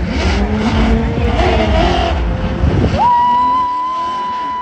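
Car engines accelerating hard during a roll race, their pitch rising and falling. About three seconds in, the engine noise gives way to a steady high-pitched tone that holds for about a second and a half.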